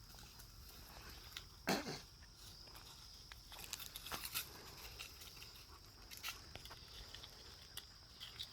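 Livestock guardian dogs playing: one short, loud dog vocal sound about two seconds in, then scattered light clicks and rustles of their scuffling.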